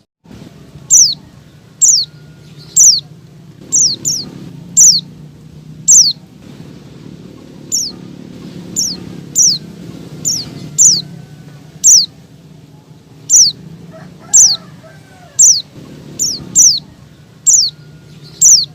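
Female pleci (white-eye) calling: short, sharp, high notes that fall in pitch, repeated about once a second. This is the female's call to males, used as a lure to make caged males start singing. A steady low hum runs underneath.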